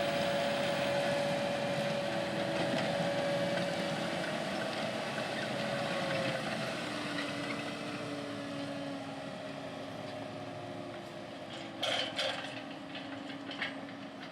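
A John Deere 9470R four-wheel-drive tractor's engine running as it pulls a planter across a field. The steady drone and its engine tone slowly fade and drop in pitch as it moves away, with a few sharp clicks near the end.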